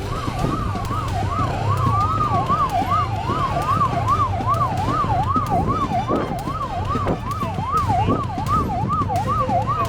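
Police siren in a fast up-and-down yelp, about two and a half sweeps a second, over the low rumble of a vehicle on the move.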